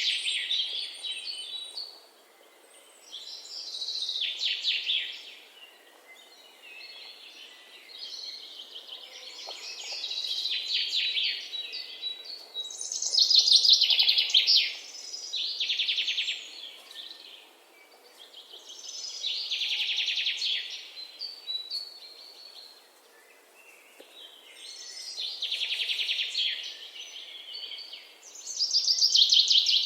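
Songbird singing in the woods: a phrase of rapid trilled notes every few seconds, each one to three seconds long and often sliding down in pitch, about seven phrases in all.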